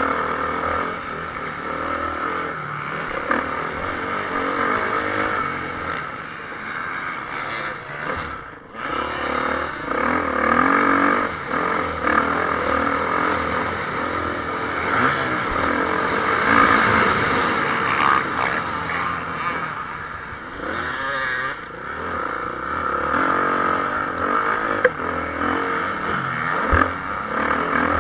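Motocross bikes racing: several engines running at high revs, rising and falling as riders accelerate and shift, with a short dip in level about eight seconds in.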